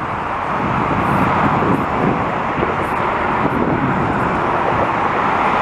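Steady jet engine noise of an airliner flying past, mixed with highway traffic noise.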